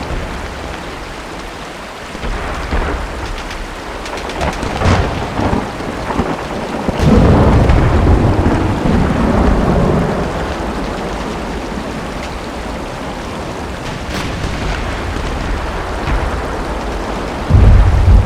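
Steady rain with rolling thunder: a long low rumble about seven seconds in and another starting near the end. A few sharp cracks stand out over the rain.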